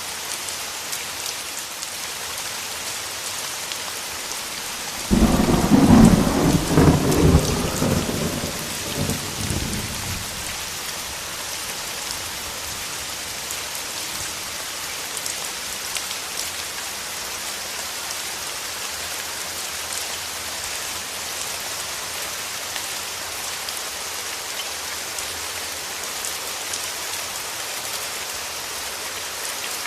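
Steady rain falling, with a thunderclap about five seconds in that cracks suddenly, rumbles for a few seconds and dies away under the rain.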